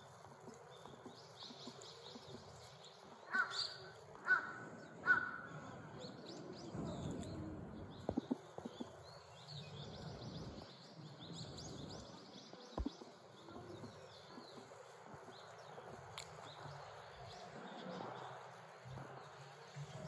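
A bird calls three times about a second apart, a few seconds in, the loudest sounds here, over faint high twittering of small birds and a steady background hiss.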